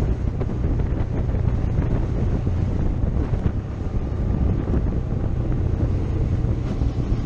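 Wind buffeting the microphone of a moving motorcycle, steady and loud, with the motorcycle's low engine drone underneath.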